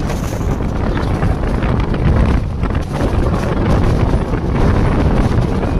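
Steady rumbling noise of an express train on the move, with wind buffeting the microphone.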